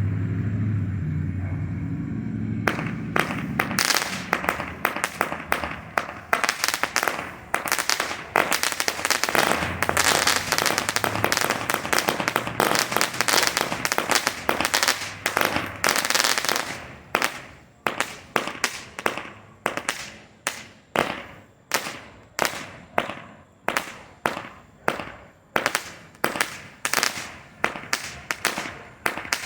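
A 100-shot Roman candle firework cake firing, starting about three seconds in: a dense string of shots and loud crackling. About halfway through it thins to single shots roughly twice a second, each followed by a short burst of crackle.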